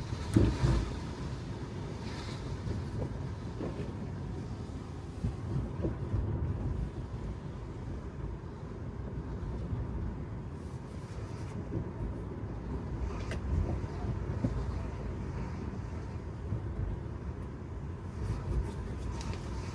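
Electric car (Tesla Model 3) rolling on wet road: a steady low tyre and road rumble with no engine note, broken by a few bumps, the loudest about half a second in.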